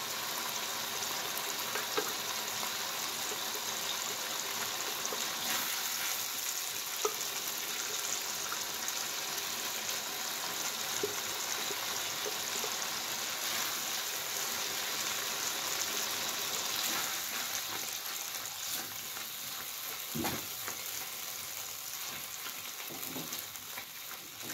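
Blended chili paste sizzling as it fries in hot oil in a wok, stirred and scraped with a silicone spatula, with a few light spatula clicks; the spice paste is being sautéed until fragrant. The sizzle eases slightly toward the end.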